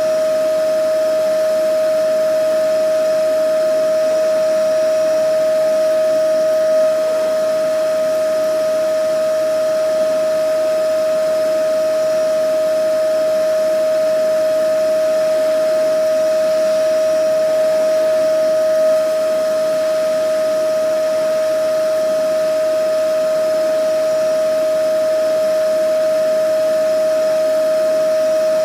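Vacuum cleaner running continuously at a constant speed. Its motor gives a steady, unchanging whine over an even rush of air.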